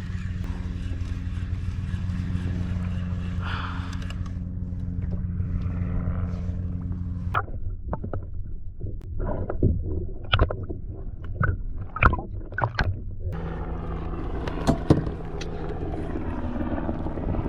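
A steady low hum, broken for about five seconds in the middle by a run of sharp knocks and clicks, as a small fish is reeled up from the bottom and handled on a plastic fishing kayak.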